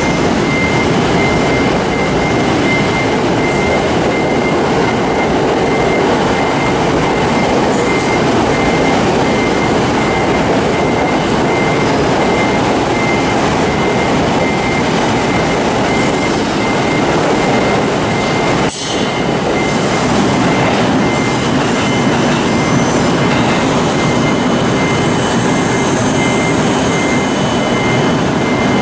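Orange-and-green-striped JR commuter electric train rolling along the platform, a steady rumble of wheels on rails. About 19 s in it cuts to an H5-series Shinkansen bullet train gliding past, with a high motor whine rising in the last few seconds.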